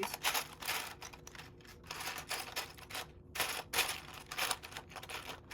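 Loose plastic Lego pieces clattering as hands rummage through them, in several irregular bursts of clicking and rattling.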